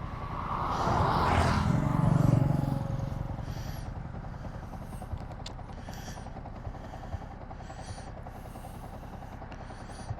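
A motor vehicle passes, growing louder and fading away over the first three seconds, followed by a steady low background hum with a few short high chirps.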